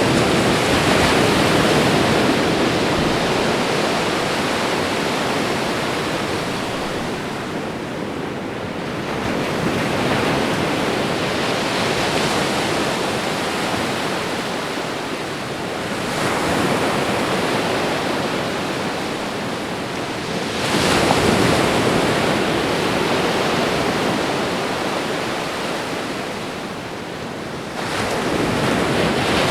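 Ocean waves breaking and washing on a shore, a steady rush of surf that swells with each new wave about every five to ten seconds.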